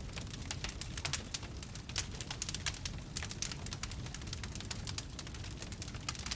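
Wood campfire crackling: many quick, irregular snaps and pops over a low, steady rumble of burning.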